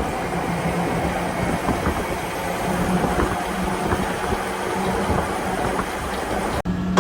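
Heavy truck running, a steady engine hum with rattling noise. It cuts out for an instant near the end.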